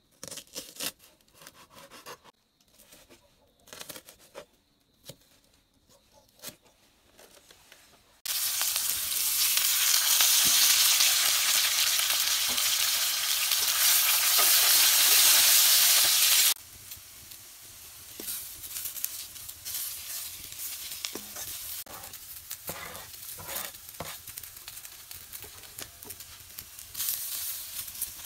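A knife chopping on a metal board in scattered sharp taps, then, about eight seconds in, a loud sizzle starts abruptly as sliced potatoes fry in oil in an iron wok. About halfway through it drops to a quieter sizzle with the clinks and scrapes of a metal ladle stirring the pan.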